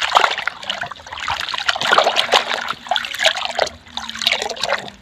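Water splashing and trickling in irregular bursts as a muddy toy is washed by hand, with small knocks of the toy.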